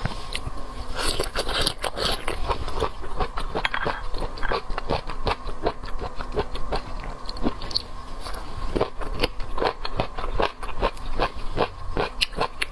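Close-miked eating of seafood: steady chewing and biting with many quick wet clicks and crunches.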